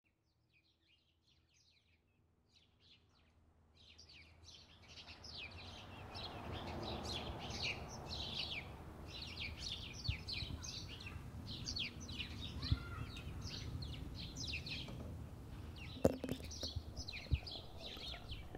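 Birds chirping in many quick, falling chirps over a steady low rumble, fading in from silence over the first few seconds. A few sharp clicks come near the end.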